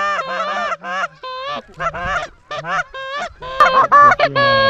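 Geese honking and clucking in a rapid, overlapping series of short honks, several rising in pitch, louder in the last second or so.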